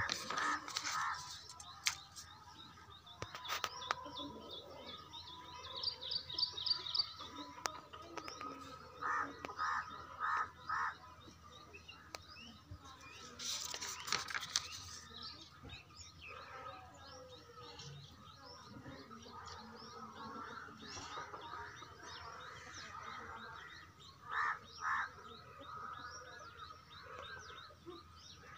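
Birds chirping and calling, with quick runs of short chirps and repeated pulsed calls. A paper page rustles as it is turned about fourteen seconds in.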